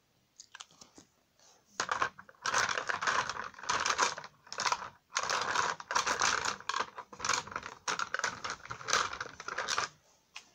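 Quick, scratchy strokes of a pen colouring in on paper, starting about two seconds in and going on in rapid runs with brief pauses.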